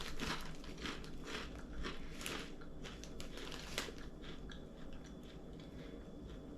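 Crunching and chewing on a crispy bacon-flavoured snack: a quick run of sharp crunches that thins out toward the end.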